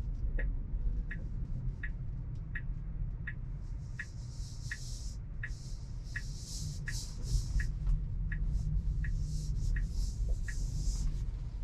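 Tesla turn-signal indicator ticking steadily, about one and a half ticks a second, for a right turn, stopping about a second before the end, over the low rumble of the car moving. A high hiss of tyres on the road swells and fades from about four seconds in.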